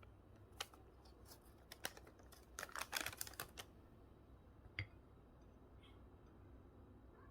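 A few faint, sharp clicks and taps, with a quick flurry of them about three seconds in and a single tap near five seconds, over a low hum.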